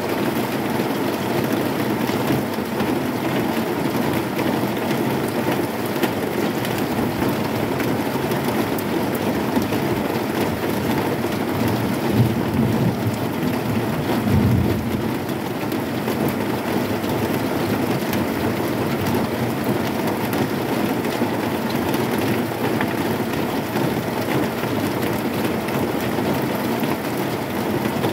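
Heavy rain falling steadily on a corrugated zinc sheet roof, a dense even patter, with a brief low rumble about halfway through.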